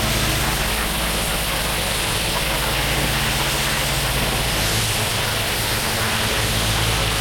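Pressure washer running steadily: the engine's hum under the hiss of the high-pressure water spray, blasting dirt and joint sand out of paver joints.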